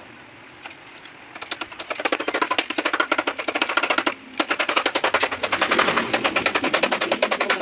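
A fast, even rattle of sharp knocks, about a dozen a second, starting about a second in, with a short break midway.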